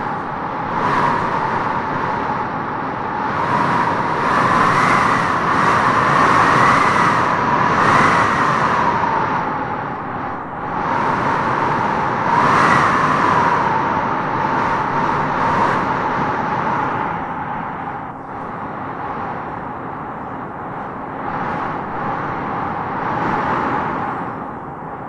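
Wind blowing in gusts, with a howling whistle that rises in pitch as each gust swells; the strongest gusts come around a quarter and half of the way through.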